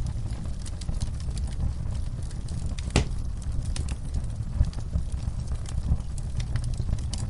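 Wood fire crackling in a fireplace: a steady low rumble of burning with scattered sharp pops, one louder pop about three seconds in.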